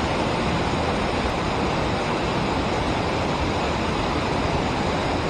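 Steady rush of river water pouring over a dam and through rapids, an even hiss with no breaks.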